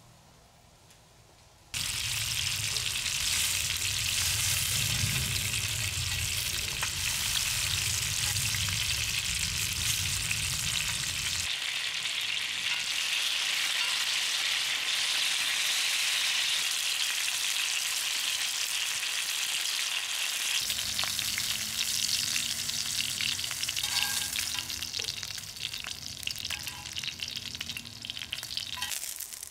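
Food frying in a cast-iron pan over a campfire: a steady sizzle that starts suddenly about two seconds in and thins into scattered crackles near the end.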